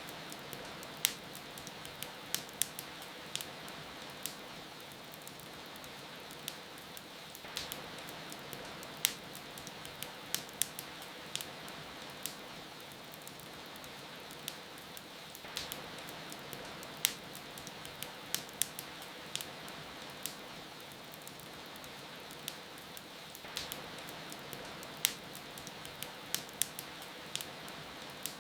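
Steady rain with frequent sharp crackles and pops from a burning wood fire. The mix repeats about every eight seconds.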